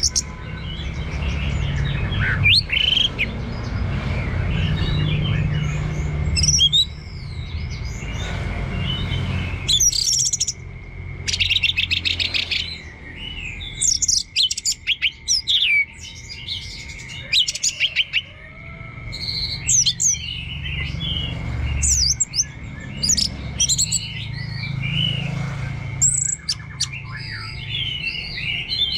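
Orange-headed thrush singing a long, varied song of quick whistled and chattering phrases with short pauses between them, the 'teler' song used to stimulate other thrushes. A steady high tone and a low rumble run underneath.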